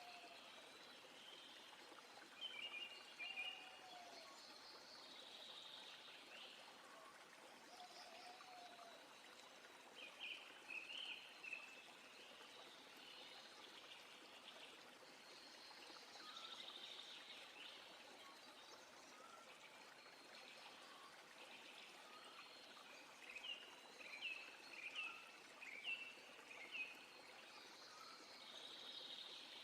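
A faint, steady stream running, with small birds chirping in short bursts, the busiest runs of chirps near the start, around ten seconds in, and again near the end.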